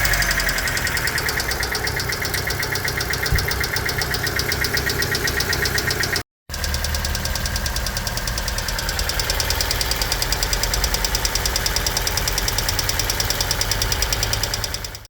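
Hyundai Getz G4EA four-cylinder engine idling with a fast, even ticking from its hydraulic lifters, a sign of noisy lifters in a high-mileage engine. The sound cuts out briefly about six seconds in, then resumes.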